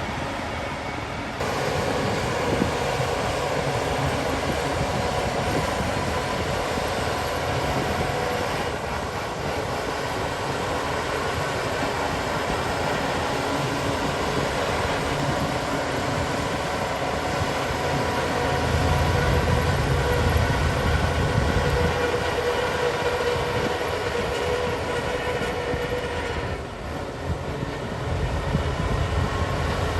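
Shantui DH17 crawler bulldozer working: diesel engine running steadily under load with the rumble and clatter of its tracks, the sound changing abruptly a few times. The low rumble swells about two-thirds of the way through.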